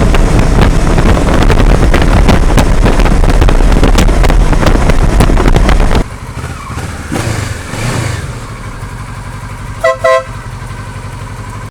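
Heavy wind buffeting on the action camera's built-in microphone while riding a Kawasaki Versys 650 at speed. About six seconds in the wind noise drops away suddenly, leaving the bike's parallel-twin engine running with a brief rise in revs, and near the end a horn gives two short toots.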